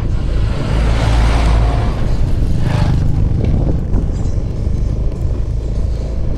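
Honda Vision scooter's small single-cylinder engine running steadily under way, with road and air noise. A rushing noise swells about a second in and again near three seconds.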